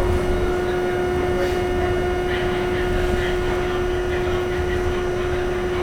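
Inside an R68 subway car: a steady low rumble with a constant hum.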